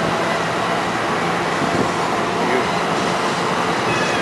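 NJ Transit passenger train passing very close by: a loud, steady rush of wheels on rail.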